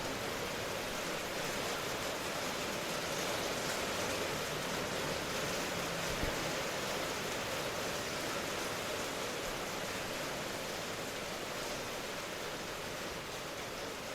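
Steady, even rain noise, a dense hiss with no single drops standing out, and a faint low thump about six seconds in.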